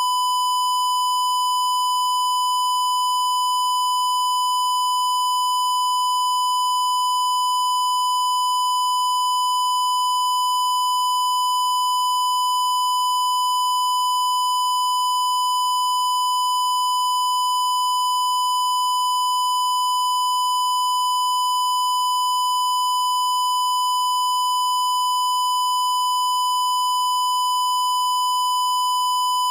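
A steady, unbroken high-pitched electronic beep tone held at one pitch without any change.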